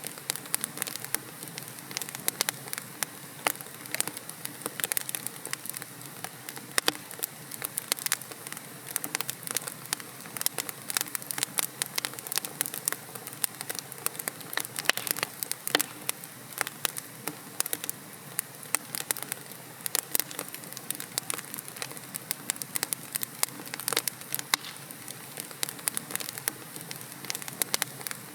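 Wood logs burning in a fireplace: a soft steady hiss under frequent sharp, irregular crackles and pops from the burning wood.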